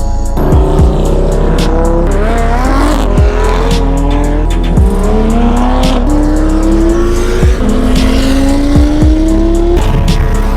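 Car engine accelerating hard, its pitch climbing and dropping back at each gear change several times in a row. Background music with a steady bass runs underneath.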